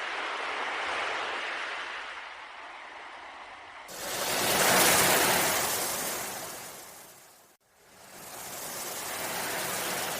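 Ocean waves washing in and drawing back in three swells, the loudest a little after four seconds in, with a sudden break in the sound about seven and a half seconds in.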